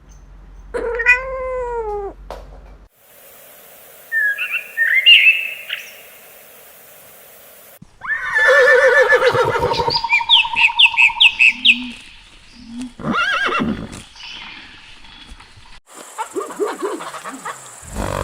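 Several short animal clips in turn, opening with one drawn-out cat meow about a second in, followed by bursts of high chirping calls and other animal calls.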